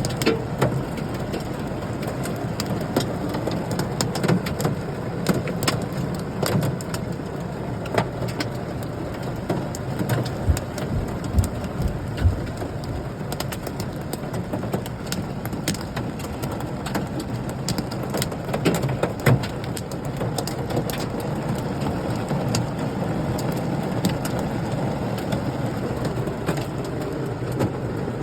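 Steady rain falling, with hailstones striking at irregular moments as sharp clicks over the even hiss.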